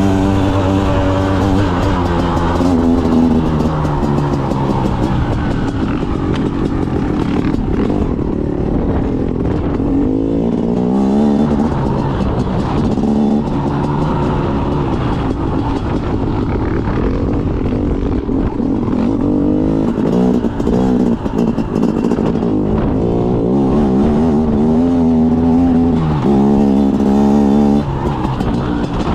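Trail motorcycle engine under way, its revs rising and falling over and over with throttle and gear changes.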